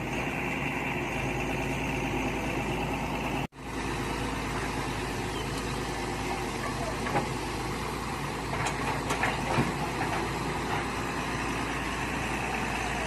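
Mini excavator's engine running steadily, with a few light clanks later on. The sound drops out for an instant about three and a half seconds in.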